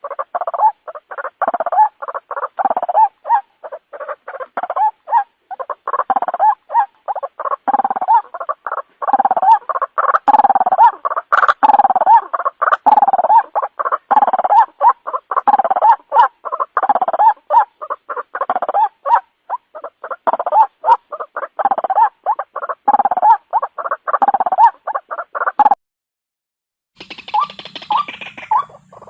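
A bird calling loudly in a rapid, stuttering run of short notes, repeated over and over, stopping abruptly near the end. A brief different sound with hiss and pulsed notes follows.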